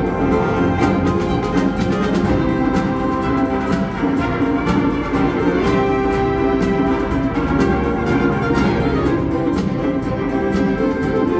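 A concert wind band playing: full held chords, with quick, regular percussion strokes running underneath.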